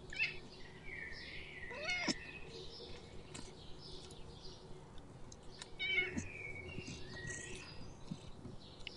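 Cat mewing in short high-pitched calls, loudest about two seconds in and again about six seconds in.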